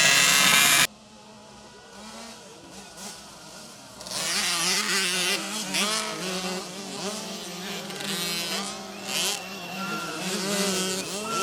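Motocross bike engines revving, their pitch rising and falling, after an abrupt cut about a second in; the engines grow louder from about four seconds in.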